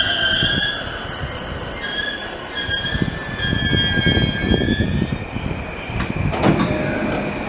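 JR Saikyo Line E233-7000 series electric train slowing to a stop at a platform, its brakes squealing in several high steady tones over the running rumble, with a brief rush of noise about six seconds in.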